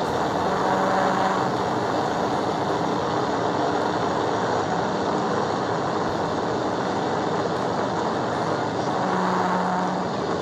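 Steady road and wind noise from a police cruiser driving at high speed, with a brief steady hum about half a second in and again near the end.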